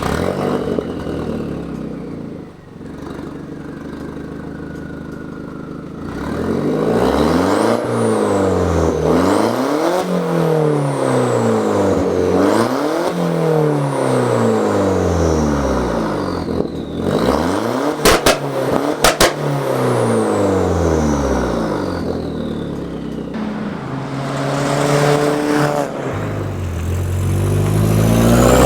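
Straight-piped (no cat, no muffler) Mk4 VW Jetta 1.8T turbo four-cylinder running steadily, then revved up and down again and again, its raspy exhaust note rising and falling every couple of seconds. A falling whistle follows the revs. Two sharp cracks come a little past the middle, and the revs climb again near the end.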